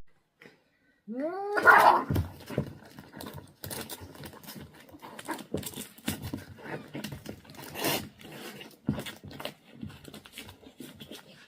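A cat gives one rising yowl about a second in, followed by irregular scuffling and rustling noises with scattered clicks.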